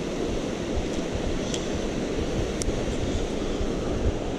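Creek rapids rushing steadily, with two faint clicks in the middle.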